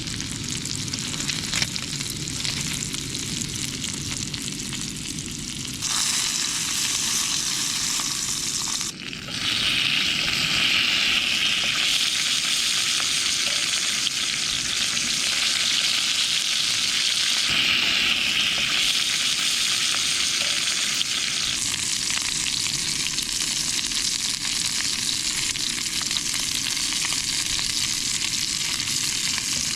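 Lamb chops frying in a hot pan, a steady sizzle throughout. The sizzle grows louder about six seconds in and again after a brief drop near nine seconds.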